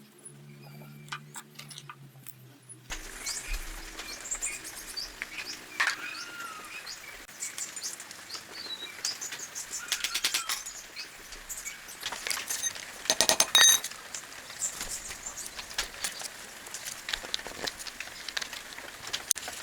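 Background music for the first three seconds, then birds chirping outdoors with scattered sharp clinks and clicks of hard objects. A quick rattling run of clicks about 13 seconds in is the loudest sound.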